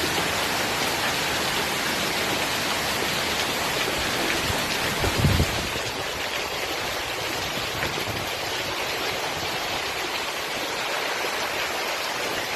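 Steady rush of water in a flash flood, with a brief low thump about five seconds in.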